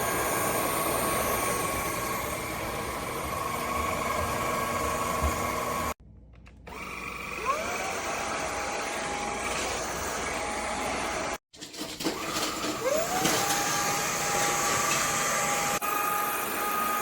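Cordless stick vacuum motor running with a steady whine. The sound breaks off twice, and each time it comes back the motor spins up with a rising whine that settles into a steady pitch.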